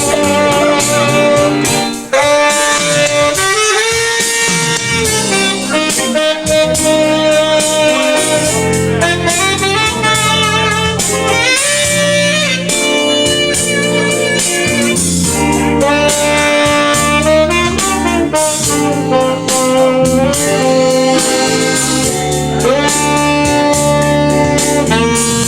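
Instrumental blues music with a saxophone-like lead playing held and sliding notes, over guitar and a steady drum beat.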